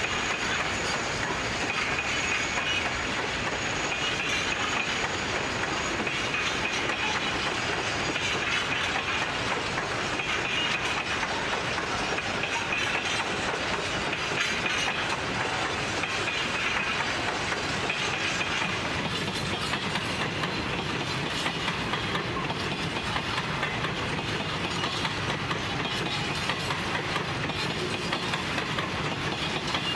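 A long rake of empty grain hopper wagons rolling past, with a steady clatter of wheels over the rail joints.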